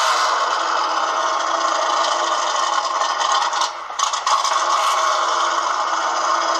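1985 Dodge truck's engine idling with a steady rattling clatter, still cold a minute and a half after a −16 cold start. It drops briefly in loudness about four seconds in.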